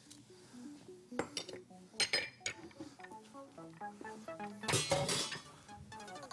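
Light clinks and knocks of a small glass bowl against a nonstick frying pan as cinnamon sticks are tipped into sugar syrup, with a louder cluster of clatters about five seconds in. Soft background music plays underneath.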